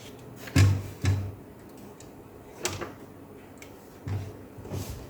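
A few irregular knocks and clacks of hard plastic laptop parts being handled and set down on a work surface while the laptop is being taken apart.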